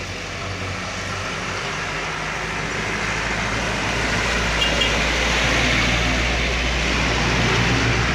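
Heavy truck engine pulling up a steep climb, with road noise, growing steadily louder as it approaches.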